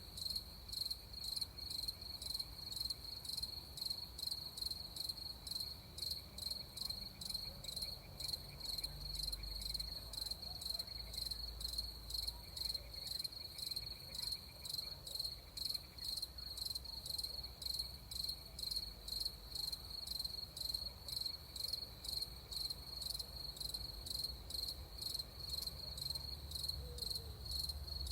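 Crickets chirping in an even, steady rhythm of a few chirps a second, with a soft low rumble beneath.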